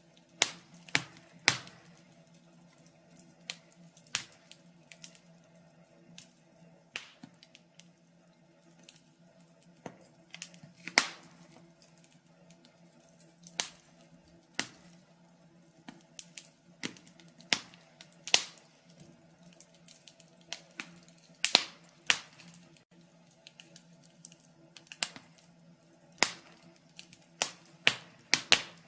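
Log fire crackling: sharp, irregular pops and snaps from burning wood, some coming in quick clusters, over a faint steady hum.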